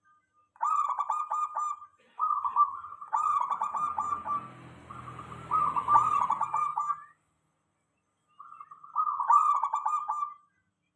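Zebra dove (perkutut) cooing: three bouts of quick, rattling coo notes, the middle one longest, with a faint low rumble underneath in the middle.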